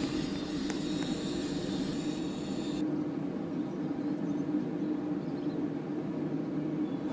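Madrid Cercanías electric commuter train running with a steady low hum. A high electric whine layered over it cuts off suddenly about three seconds in.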